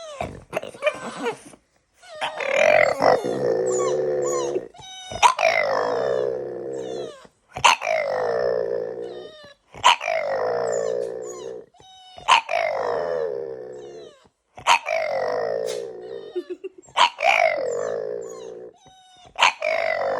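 A French bulldog vocalising in a run of about eight long, drawn-out calls, roughly one every two and a half seconds, each falling in pitch and each starting with a sharp click.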